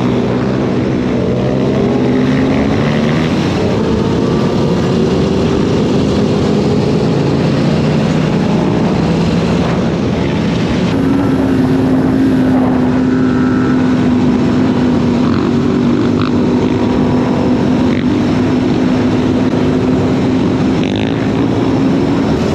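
Dirt bike engines running, their pitch rising and falling. From about halfway, one engine holds a steady pitch.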